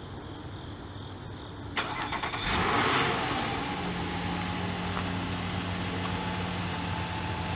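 2018 Nissan Murano's 3.5-litre V6 being remote-started from the key fob: about two seconds in the starter cranks briefly, the engine catches with a quick rise in revs, then settles into a steady idle.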